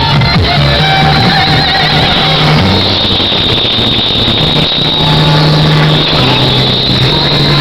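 Electronic music played very loud through a competition car sound system, with heavy sustained bass notes that step between pitches and a high wavering synth tone.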